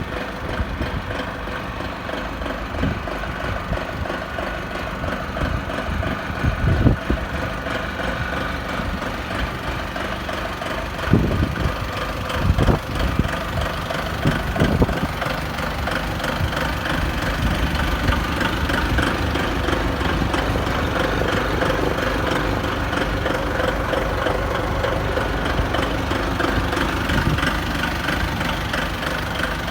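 Engine of an Apache 3-ton forklift truck running steadily, with a few sharp thumps between about a quarter and half of the way through, and running a little louder in the second half.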